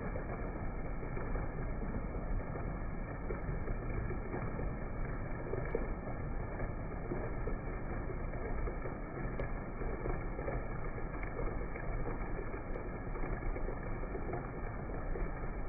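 Steady, dull-sounding rush of strong wind and rain, heaviest in the low rumble and without any bright high tones.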